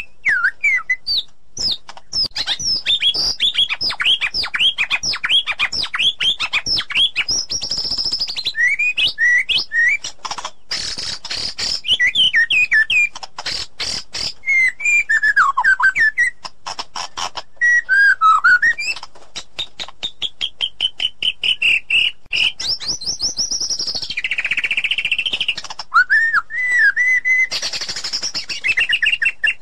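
White-rumped shama singing a continuous, varied song: clear whistled phrases, runs of fast repeated notes and sweeping notes that rise and fall.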